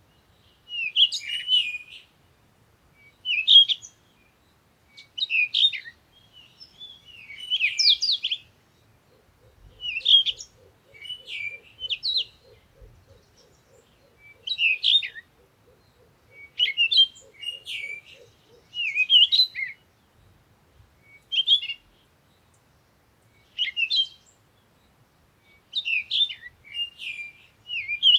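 A songbird singing short warbled phrases, one every second or two. In the middle a faint low rapid pulsing runs for several seconds under the song.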